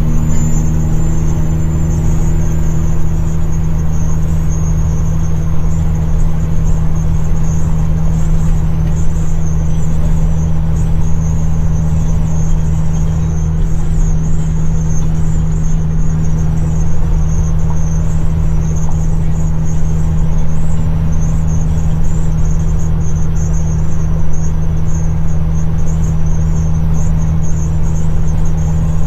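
Caterpillar C-15 diesel engine of a dump truck running steadily under way, a loud, even drone that holds one pitch throughout with no gear changes.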